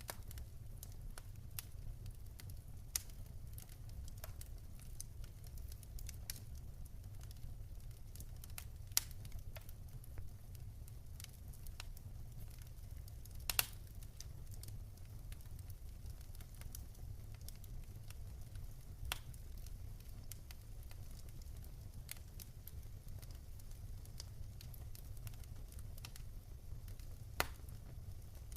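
Wood fire in a fireplace crackling, with irregular small snaps and a few louder pops over a steady low rumble.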